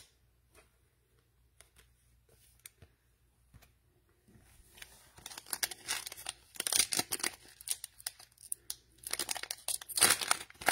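A trading-card pack wrapper being torn open and crinkled by hand, in a run of tearing and crackling bursts that starts about halfway through, after a few faint clicks of cards being handled.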